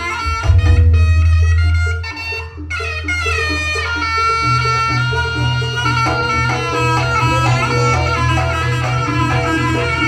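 Jaranan music: a loud reedy slompret melody with sliding notes over drums and a heavy deep bass, dipping briefly about two and a half seconds in before the melody comes back.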